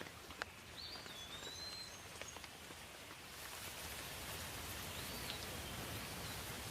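Steady rain falling, with individual drops clicking and tapping close by; the rain hiss thickens about halfway through. A bird calls twice with a short whistled glide.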